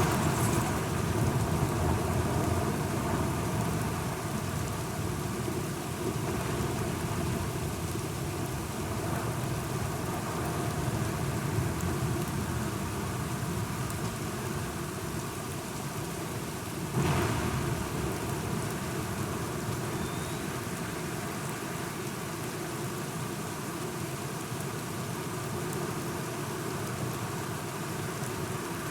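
Steady rain with rolling thunder, loudest at the start, and a sudden crack of thunder a little past halfway that dies away into the rain.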